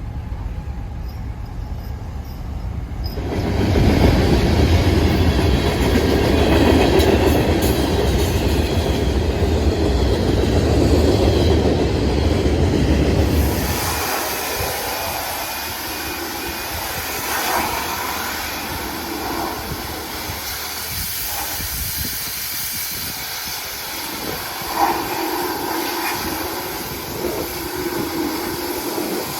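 Road noise of a pickup truck towing loaded car trailers: a loud, heavy rumble of engine and tyres that drops about fourteen seconds in to a lighter, steady tyre hiss.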